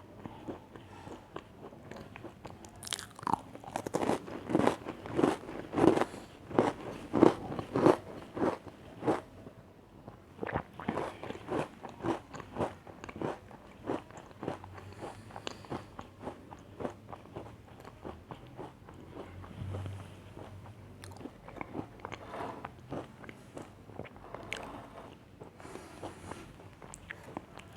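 Close-up crunching of a crisp biscuit being bitten and chewed. The crunches come in a steady rhythm and are loudest early on, about three to nine seconds in, then give way to softer, quieter chewing.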